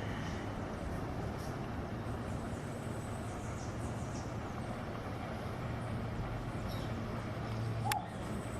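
Steady low outdoor rumble, with a sharp click near the end.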